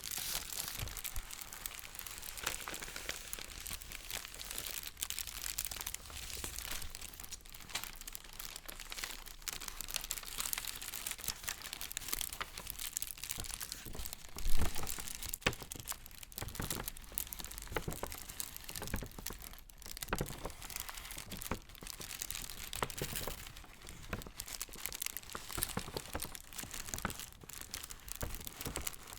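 Paper being handled close to the microphone, crinkling and rustling continuously with many small crackles, and one louder thump about halfway through.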